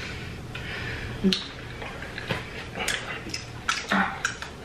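Close-up eating sounds: chewing and scattered wet mouth clicks and smacks from people eating pizza and chicken wings, with two short hums of pleasure, one about a second in and one near the end.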